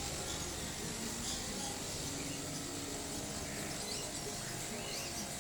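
Animal market ambience: a steady high chirring and many small chirps from caged birds, over a low background din.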